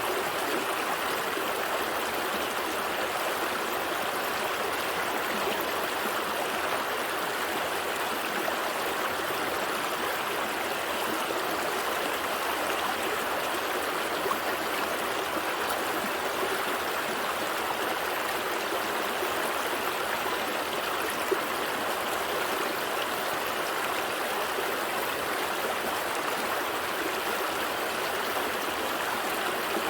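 A gentle stream flowing steadily over rocks, a continuous even rush of water with soft trickling.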